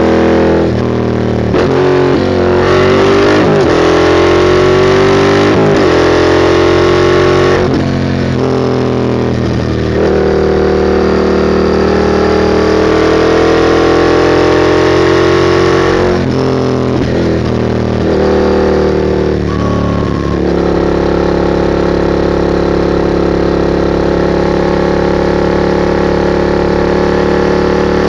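2021 Yamaha MT-07's parallel-twin engine through a straight-piped Mivv GP exhaust with no catalyst, accelerating hard. Its pitch rises and drops back at each gear change, several times in the first eight seconds and again at about sixteen to twenty seconds in. Between and after the shifts it holds a steady pitch while cruising.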